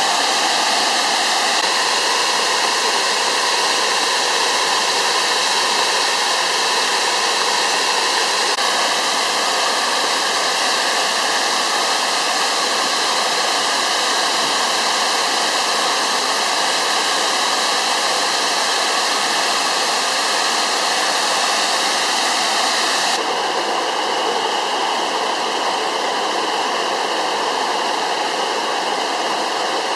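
Waterfall rushing steadily, an even, loud wash of falling water. About 23 seconds in the sound changes abruptly, losing some of its highest hiss and dropping slightly in level.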